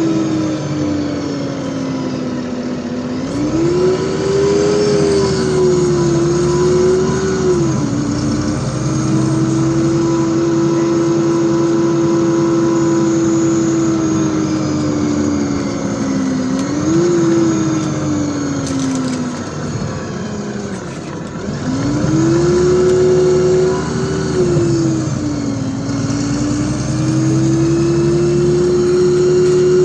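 LiAZ 5292.65 city bus heard from inside the cabin while moving: the engine and drivetrain whine falls and rises several times as the bus slows and speeds up. About two thirds of the way in it sinks to its lowest, then climbs again as the bus accelerates away.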